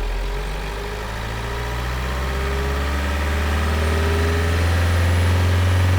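Heavy engine idling with a low steady rumble that slowly grows louder.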